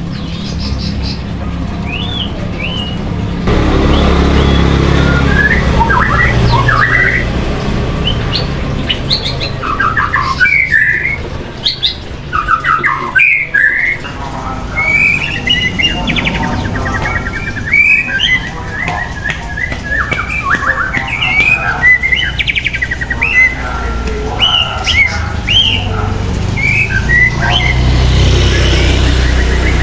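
A caged songbird singing and chirping in a long run of short, quick whistled notes and harsh squawky phrases. A steady low rumble sits underneath and grows louder a few seconds in.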